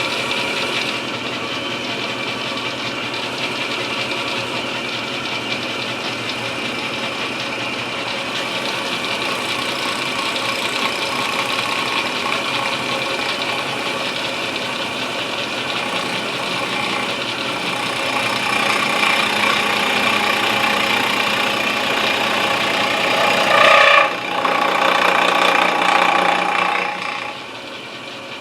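Milling machine running with its cutter cutting the inletting into an English walnut gunstock blank: a steady machine whir with a rattle that grows louder in the second half. Near the end there is one sharp knock, and the cutting noise then falls away.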